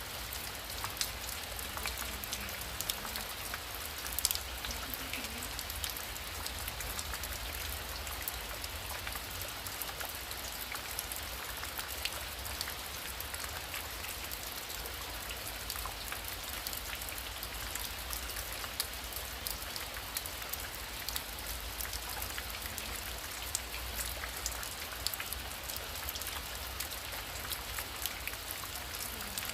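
Heavy rain falling steadily, with many sharp drop ticks against a dense hiss; one louder drop tick about four seconds in.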